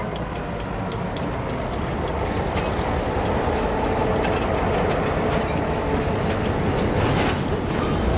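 Freight train passing at close range: a diesel switcher locomotive rumbles past with its bell ringing, then covered hopper cars roll by with their wheels clacking over the rail joints. The bell fades during the first few seconds and the rolling noise grows a little louder.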